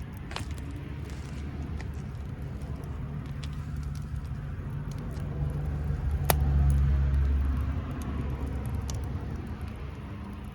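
A motor vehicle passing, its low rumble swelling to a peak about six to seven seconds in and then fading, over the steady crackle of a wood campfire with a couple of sharp pops.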